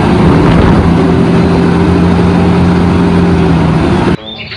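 Heavy truck engine running steadily at a low, even pitch, a loud dubbed-in engine sound effect; it cuts off abruptly about four seconds in.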